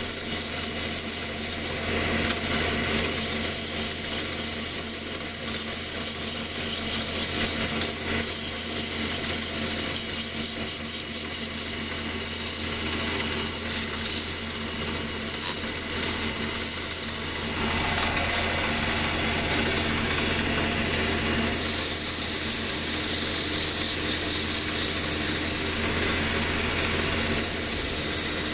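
A power tool running steadily while wood is rubbed or abraded, a continuous high hiss over a low motor hum, shifting slightly a few times.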